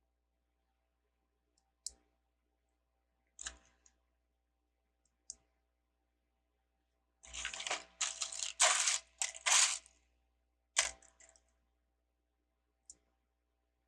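Plastic LEGO bricks clicking and clattering as they are handled: a few single sharp clicks, then a couple of seconds of dense rattling from rummaging through loose pieces about seven seconds in, then a few more clicks.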